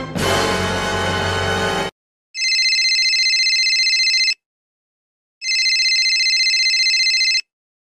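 A telephone ringing twice, each ring about two seconds long with a fast trill, a second apart. Before it, a short burst of music cuts off about two seconds in.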